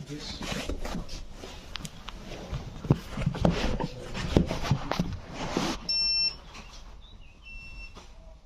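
A run of irregular clatter and knocks, then from about six seconds in, short high electronic beeps repeating at intervals.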